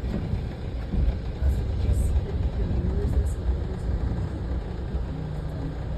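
Amtrak train running, a steady low rumble with a few short, faint high squeaks in the middle.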